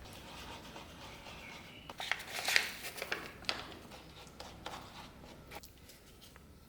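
Rubbing and scraping by hand, with a cluster of sharp clicks and scrapes about two to four seconds in and a few scattered ticks after.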